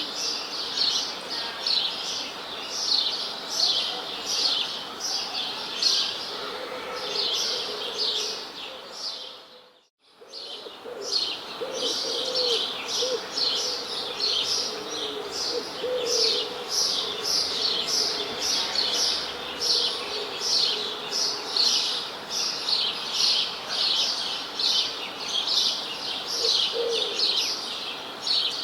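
A chorus of small birds chirping densely and rapidly, with a lower-pitched call heard through the middle. About a third of the way in, the whole chorus fades out briefly and then fades back in.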